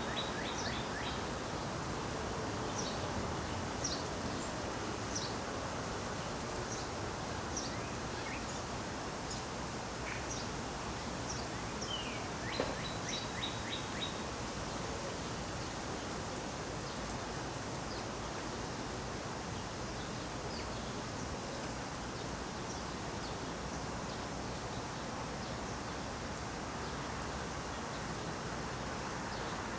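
Birds chirping over steady outdoor background noise: short, high chirps scattered through the first half, with a brief trill about halfway, then only the background noise.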